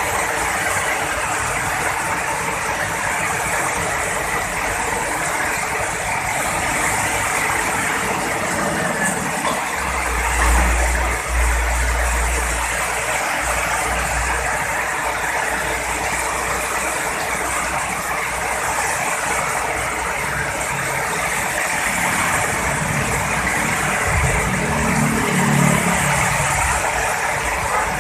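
Heavy rain pouring steadily, with a low rumble of thunder about ten seconds in and a fainter one near the end.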